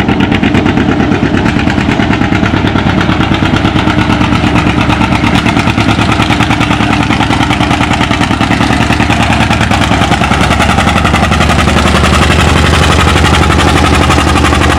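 John Deere A's two-cylinder engine running hard under load, pulling the weight-transfer sled down the track. Its exhaust pops come in a fast, even train, getting a little louder toward the end.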